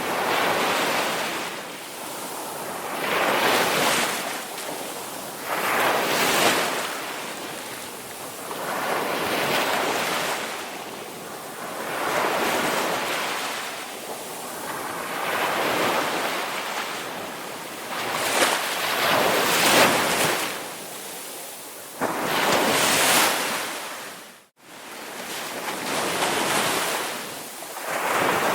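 Ocean waves washing in, a surge of surf every three seconds or so that swells and fades away. About three-quarters of the way through, the sound cuts out for an instant and then resumes.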